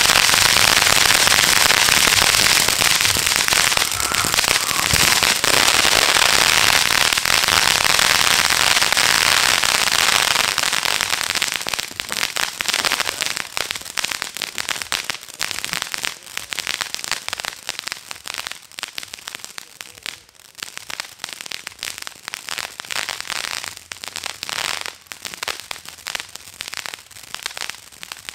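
Consumer fireworks firing: a loud, dense crackling barrage for about the first ten seconds, then thinning to scattered crackles and pops that grow quieter toward the end.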